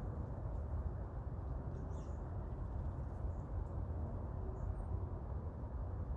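Steady low outdoor background rumble, with a few faint, short, high bird chirps over it. No woodpecker tapping is heard.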